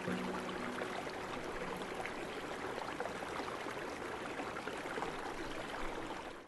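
Steady rush of a flowing mountain stream, with faint musical tones dying away in the first second; the sound cuts off abruptly at the very end.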